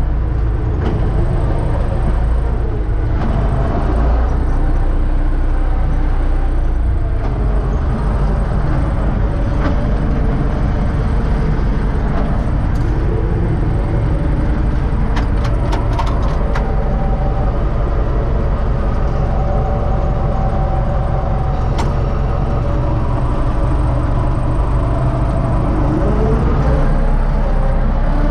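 Universal U650 tractor's diesel engine running steadily while pulling a seed drill, with a cluster of light metallic clicks about halfway through.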